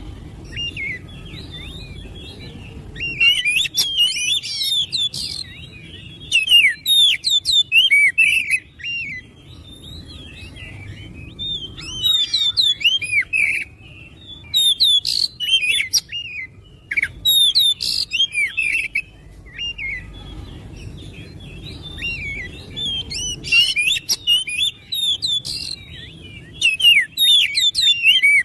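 Oriental magpie-robin (kacer) singing in bursts of rapid, varied whistled phrases made of short sliding notes, with brief pauses between the bouts, over a faint low background hum.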